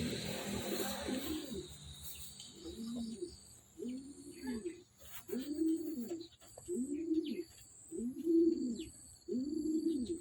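King pigeon cooing: a run of low, arching coos about one a second, starting a couple of seconds in after a brief rustling noise.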